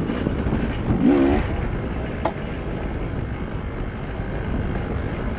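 Dirt bike engine running while riding, with a brief swell in pitch about a second in and a sharp click a little after two seconds.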